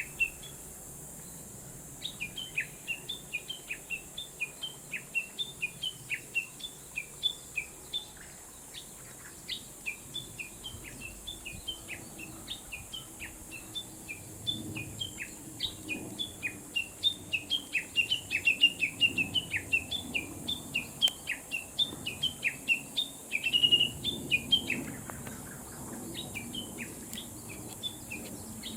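Wild birds chirping: a steady stream of short, high chirps, several a second.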